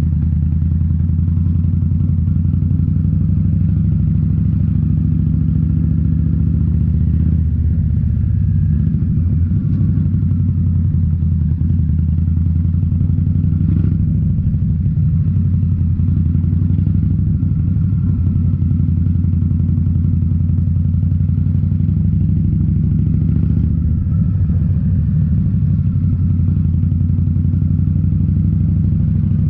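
2018 Indian Scout Bobber's V-twin engine running through Rinehart slip-on mufflers while riding: a steady, loud exhaust note, which shifts briefly about seven to ten seconds in and again near twenty-four seconds in.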